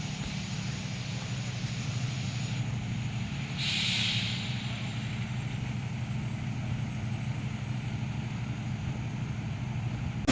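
Heavy vehicle's engine idling steadily, with a short burst of hissing air about four seconds in.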